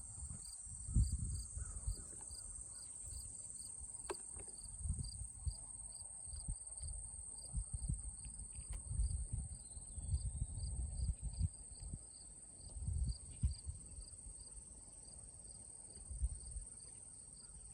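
Insects calling: a steady high buzz with an evenly repeating chirp, like crickets, throughout. Irregular low gusts of wind rumble on the microphone and are the loudest thing in it.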